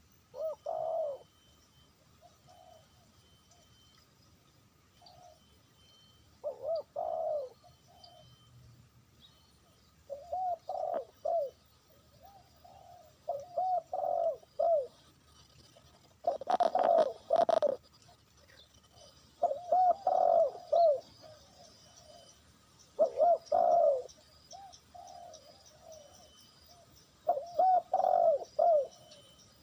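Doves cooing: about eight phrases of short, arched coo notes, one phrase every few seconds. A brief burst of rustling noise overlaps one phrase about halfway through, and small birds chirp faintly in the background.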